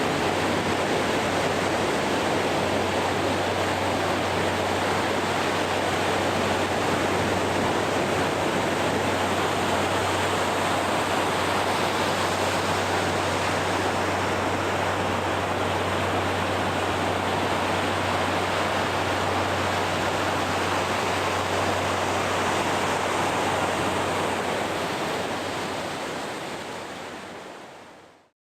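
Steady wash of ocean surf on a beach, an even rushing noise without distinct breaks, fading out over the last few seconds.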